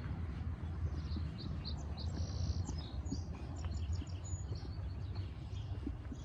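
Small birds chirping, a quick scatter of short high chirps for a few seconds, over a steady low rumble.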